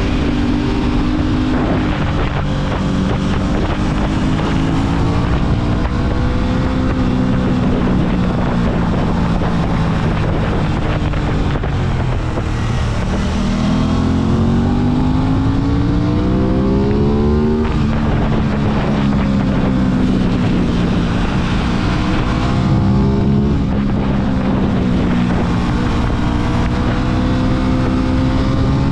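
Aprilia RS 660's parallel-twin engine pulling on the road, its pitch wandering with the throttle, then climbing steadily for about five seconds in one gear before dropping sharply at an upshift about halfway through, and rising again near the end. Wind rush on the microphone runs underneath.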